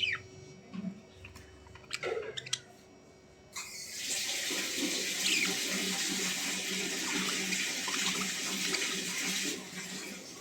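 Running water, a steady rush that starts suddenly about three and a half seconds in and stops about six seconds later. It is preceded by a short falling chirp and a few light clicks.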